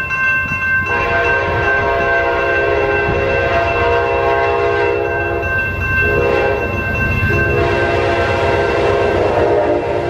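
Amtrak P42DC diesel locomotive sounding its horn in several long blasts as it approaches, over the rumble of the engine and train. Right at the end the horn's pitch begins to drop as the locomotive passes.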